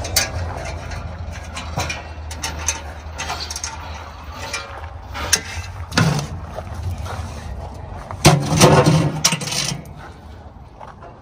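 Scattered clicks, knocks and rattles of hand work on metal parts over a steady low hum. About eight seconds in comes a louder scraping sound with a low tone, lasting about a second and a half.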